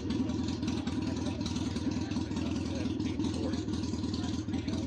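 Motorcycle engine running steadily, with a rapid, even exhaust beat.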